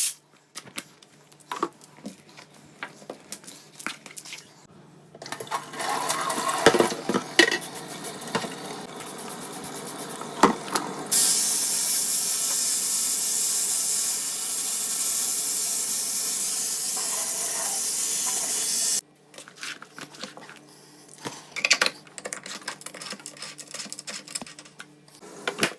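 Washing machine filter being cleaned: clicks, knocks and small splashes of handling, with water running steadily for about eight seconds in the middle.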